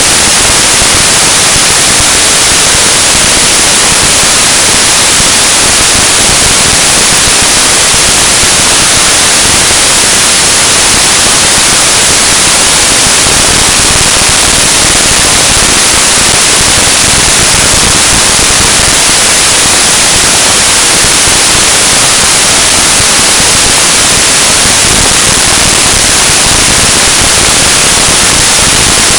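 Loud, steady static hiss filling the whole sound track: a corrupted recording, with no engine or crash sound standing out.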